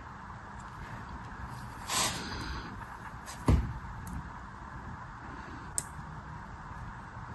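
Packaging being handled during an unboxing: a brief rustle about two seconds in, a sharp thump of something set down about halfway through, and a small click near the end, over a steady background hiss.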